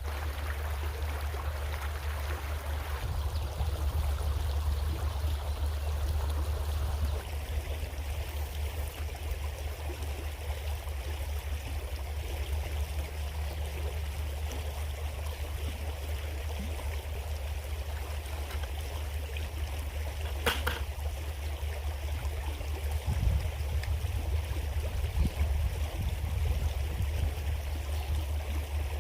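Water of a small creek running steadily over its bed, with a steady low rumble underneath and one sharp click about two-thirds of the way through.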